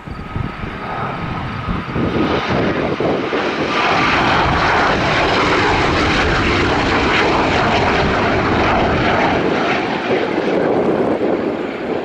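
Northrop T-38 Talon jet trainer's twin turbojets passing close: a thin whine at first, then jet noise that swells over the first few seconds, holds loud, and eases off near the end.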